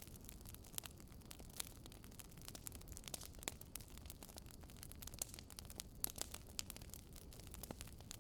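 Burning firewood crackling: irregular sharp pops and snaps, some louder than others, over a soft low rumble.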